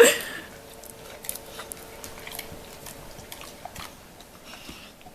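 American bulldog licking and smacking his lips and tongue, working at peanut butter stuck under his jowls: a loud sudden burst right at the start, then many short wet clicks and smacks at an uneven pace.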